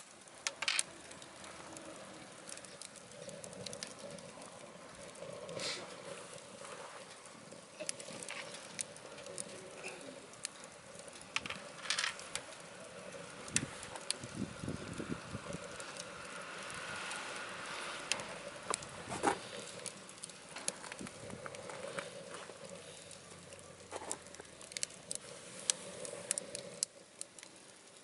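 Wood fire burning scrap lumber in a wood stove: irregular crackling and sharp pops and snaps over a low steady hiss.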